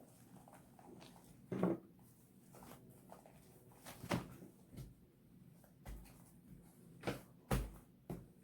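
Scattered clicks and knocks of slime-making supplies and containers being handled on a table, with a dull thump about six seconds in and another near the end.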